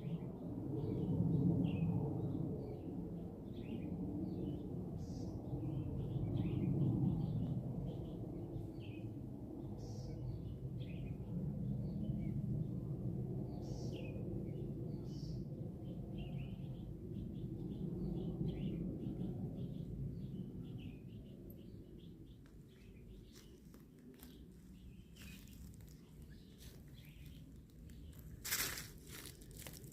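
Small birds chirping in short, scattered calls over a low, swelling rumble of background noise that fades about two-thirds of the way through. Scattered light clicks or rustles follow, with one louder knock near the end.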